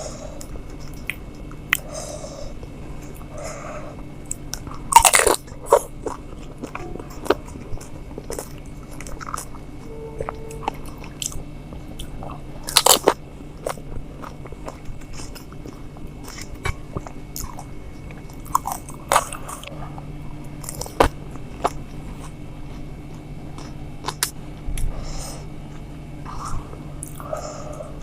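Close-up eating of pani puri (golgappa): crisp puri shells crunching and being chewed, with scattered crackles. The loudest crunches come about five seconds in and again near thirteen seconds, over a steady low hum.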